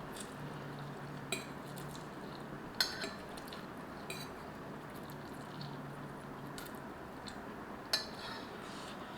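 Eating utensils clinking against a noodle bowl a handful of times, a few short sharp clicks over a steady background hiss.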